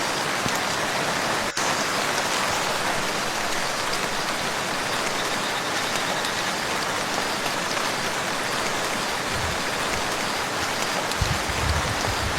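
Steady rain falling on a lake's surface, an even hiss of countless drops. A low rumble comes in near the end.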